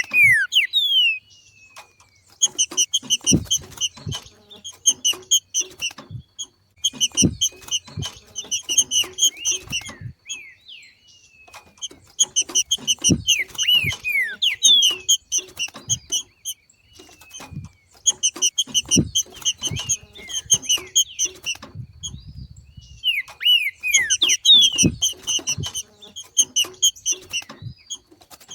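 Green-winged saltator (trinca-ferro) giving its 'macheado' call, the excited breeding-season call: bouts of rapid high chattering notes a few seconds long, repeated after short pauses and mixed with short downward-slurred whistles. Dull low knocks come along with several of the bouts.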